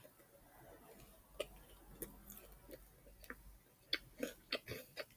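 Biting into and chewing a fried chicken sandwich: faint, scattered crisp crunches and wet mouth clicks that come thicker in the last second or so.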